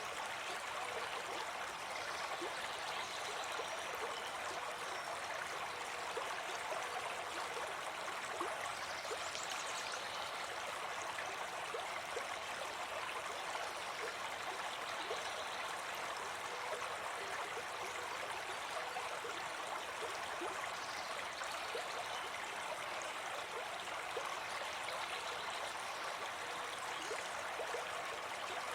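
Small brook babbling steadily over stones, an even rush of running water.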